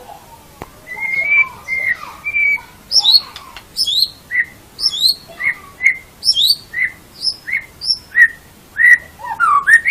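White-rumped shama (murai batu) singing: a few held whistles, then a steady run of clear whistled notes, a high falling note paired with a lower one, repeated about twice a second.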